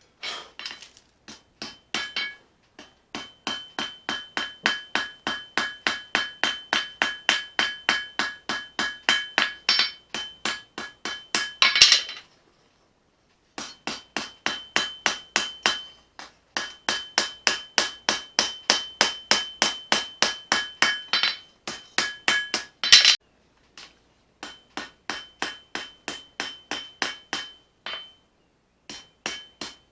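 Hammer forging: a hammer strikes hot leaf-spring steel on an anvil in a steady rhythm of about three blows a second, with a bright ringing tone on each blow. There are a few short pauses, and single harder blows just before two of them.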